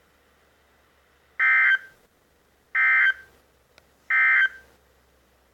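NOAA Weather Radio SAME end-of-message data signal: three short, identical buzzy bursts of digital warble tones, about a second and a half apart, marking the end of the severe thunderstorm warning broadcast.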